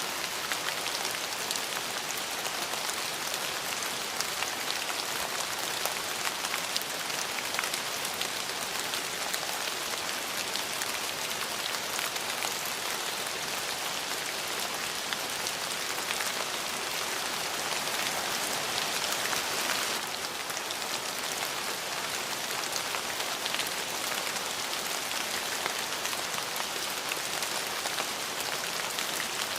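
Steady rain falling on a surface: an even hiss dotted with many small drop ticks, dipping slightly in level about twenty seconds in.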